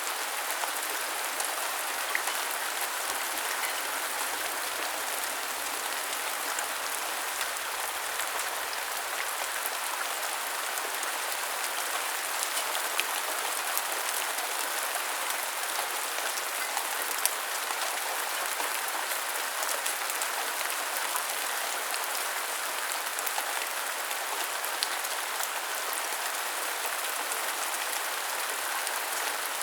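Steady rain falling on surfaces, a constant hiss with scattered individual drops ticking through it.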